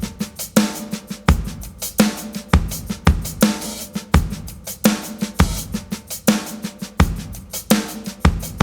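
Drum kit playing a steady rock beat, with kick, snare and cymbals and a strong hit about every two-thirds of a second.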